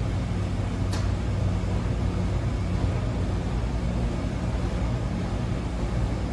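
Wascomat Senior W125 35-pound commercial washing machine running mid-cycle: a steady low motor hum under an even noise, with one sharp click about a second in.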